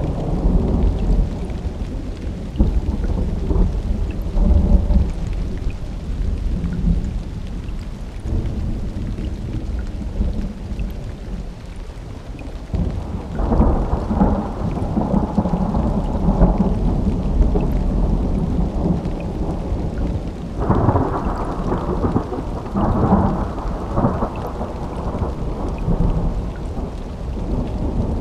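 Thunderstorm: thunder rumbling low over steady rain, with a new clap breaking in suddenly about halfway through and two more loud rolls near the end.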